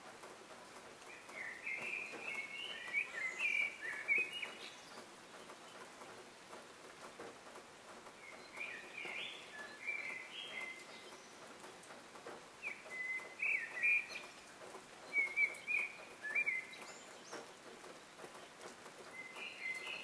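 A songbird singing short phrases of quick, high notes about every three to four seconds, over a faint steady outdoor hiss.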